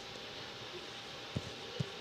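Steady background hiss with a faint steady hum, and two soft low thumps about a second and a half in.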